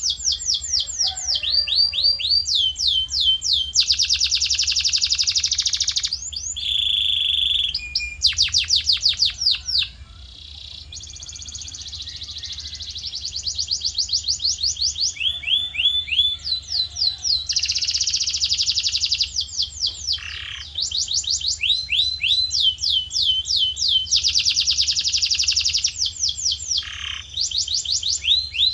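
Male canary singing a long, continuous song in rapid tours: fast runs of repeated down-sweeping notes, buzzy rolls and a held steady note, switching from one tour to the next with hardly a break.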